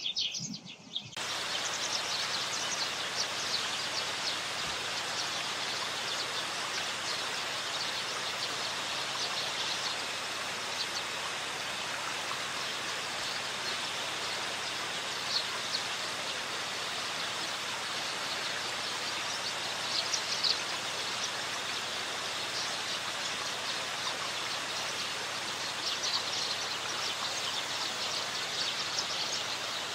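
A steady rush of water, with small birds chirping faintly now and then, mostly about two-thirds of the way through and again near the end. It starts abruptly about a second in, after a brief snatch of bird calls.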